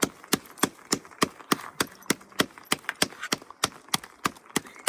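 Rapid, regular knocking or pounding: sharp strikes about three times a second, steady throughout.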